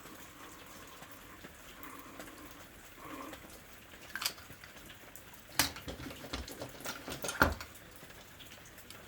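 Faint clicks and taps of pens and pen caps being handled on a desk: a single click about four seconds in, then a cluster of sharper clicks a little past halfway.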